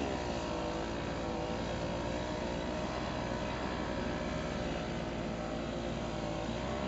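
Small snow blower engine running steadily under way, its pitch dipping slightly near the start and again near the end.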